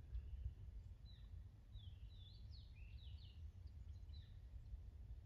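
A bird calling faintly: a quick run of short, falling chirps from about a second in until past four seconds, over a low steady rumble.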